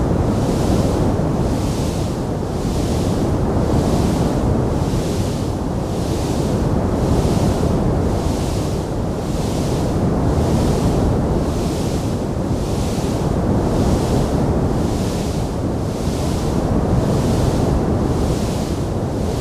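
Wood fire burning in a fireplace, giving a steady low rushing noise with no distinct crackles or pops. A higher hiss swells and fades regularly, about once a second.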